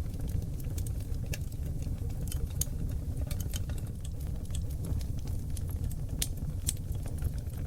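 Oak logs burning in a wood fireplace: frequent short, sharp crackles and pops over a steady low rumble of the flames.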